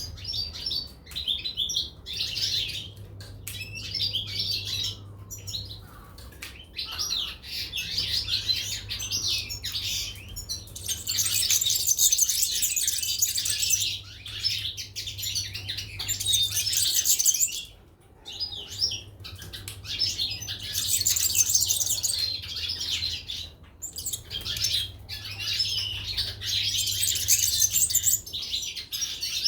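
Caged goldfinches and canaries chirping and singing in rapid high twittering bouts, with the fullest song in long stretches through the second half. A steady low hum runs underneath.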